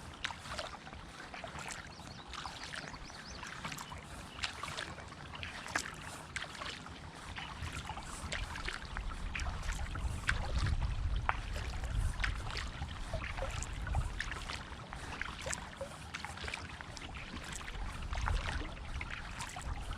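Kayak paddle strokes: water splashing and dripping off the paddle blades in many small irregular splashes. A low rumble comes in from about halfway.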